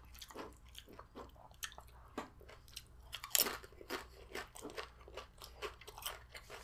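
A person chewing crunchy tortilla chips: irregular crisp crunches and mouth sounds, with a louder crunch about halfway through.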